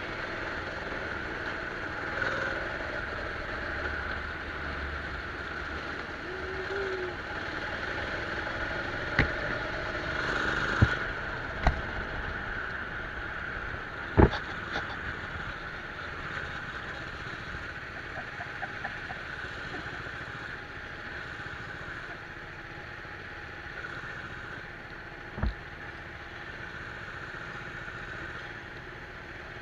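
Go-kart engine running steadily, with a few sharp knocks and clicks, the loudest about fourteen seconds in; the engine sound fades gradually over the second half.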